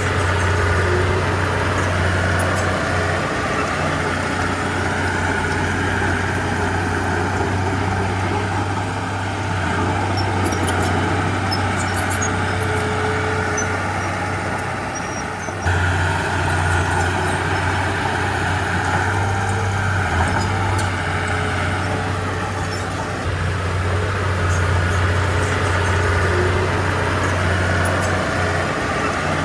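Heavy diesel engine of earthmoving machinery running steadily with a deep, low hum, dipping briefly and then jumping back up suddenly about halfway through.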